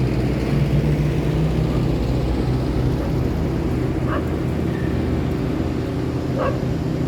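Street traffic with a heavy vehicle's engine running in a steady low hum. A dog barks twice in the background, about four and six seconds in.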